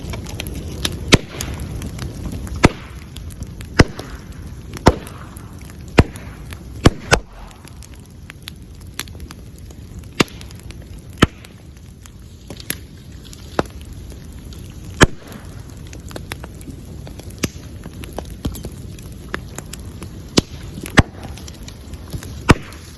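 Bamboo bonfire burning with a steady low rush and crackle, broken by sharp, loud cracks at irregular intervals, some close together, as heated bamboo sections burst.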